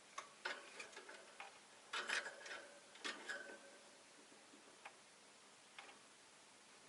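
A caged rosy-faced lovebird making soft, irregular clicks and taps, loudest in a quick cluster about two seconds in, with a few single ticks near the end.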